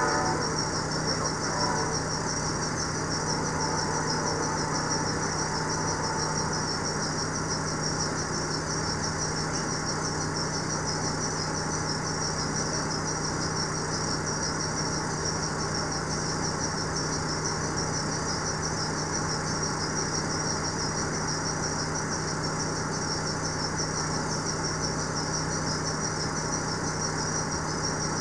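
Double-stack intermodal freight train rolling past: a steady, even rumble with a constant low hum and a high hiss above it.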